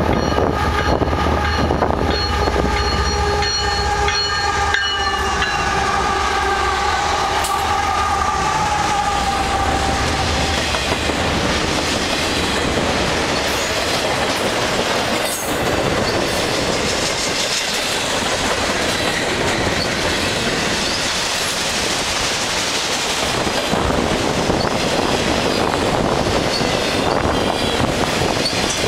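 Canadian Pacific freight train with three diesel locomotives passing close by. A locomotive air horn sounds for about the first ten seconds over the deep rumble of the engines, its pitch dropping slightly as the lead units go by. Then the engine rumble fades and container and autorack cars roll past with a steady clatter of wheels on rail.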